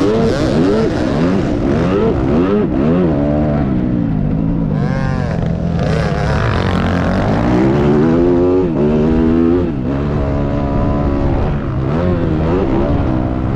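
Dirt bike engine revving up and down over and over, the pitch rising and dropping through throttle and gear changes, with a second, higher-pitched engine sweeping by about five seconds in.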